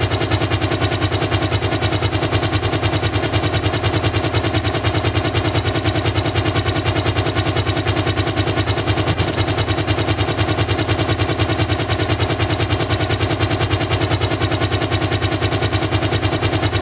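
Engine running steadily at idle, with a rapid, even pulsing beat. It starts and stops abruptly, as a spliced-in sound-effect clip.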